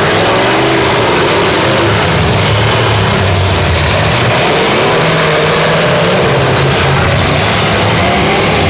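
Demolition derby cars' engines running hard and revving up and down, loud and continuous.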